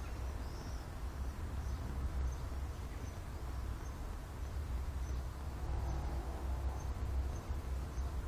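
A steady low rumble, with a faint high chirp repeating about every half second above it.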